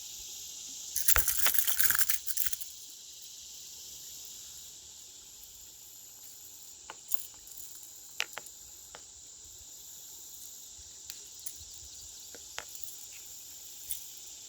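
Steady high chorus of insects, with a short burst of loud rattling and clicking about a second in and a few scattered clicks after it.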